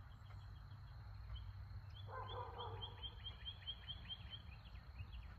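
A songbird calls a rapid run of short, high, falling chirps, about four a second, for a couple of seconds. Under it is a low steady outdoor rumble, and a brief lower pitched call joins it about two seconds in.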